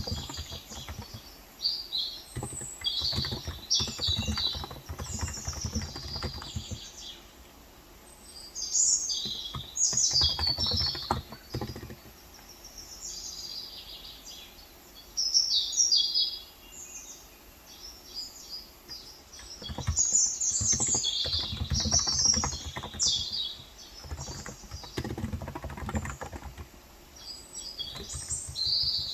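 Typing in bursts on a Cox Endeavour tenkeyless keyboard with 35 g electrostatic capacitive switches, its keystrokes coming in runs of several seconds with short pauses. Birds chirp repeatedly over it throughout.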